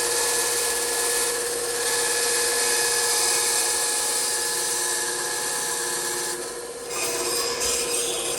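Bandsaw running, its blade cutting through wood with a steady hiss over the motor hum. The cutting eases off briefly about six seconds in, then starts again.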